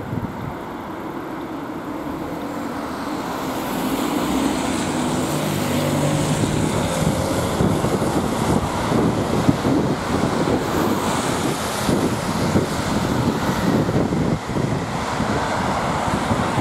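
A public transport vehicle going past, growing louder over the first few seconds and then staying loud, with a low steady hum for a few seconds and wind buffeting the microphone.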